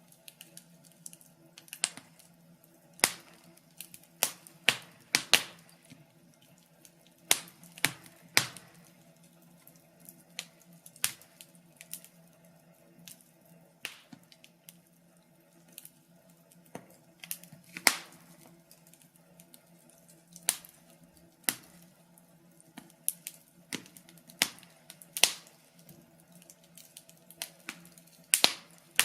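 Wood fire crackling: irregular sharp pops and snaps, roughly one a second, some much louder than others.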